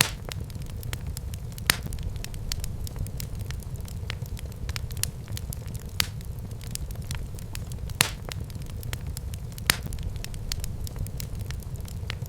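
Wood fire burning in a fireplace: a steady low rumble of flames with frequent sharp crackles and an occasional louder pop from the burning logs.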